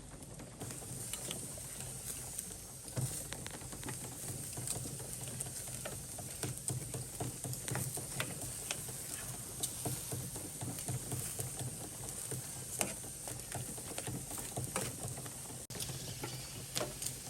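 Irregular light clicks and clatter over a steady low hum.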